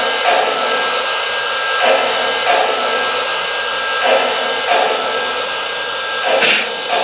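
Sound system of a Lionel 0-8-0 model steam locomotive playing through the speaker under its tender: a steady steam hiss with pairs of soft chuffs repeating about every two seconds.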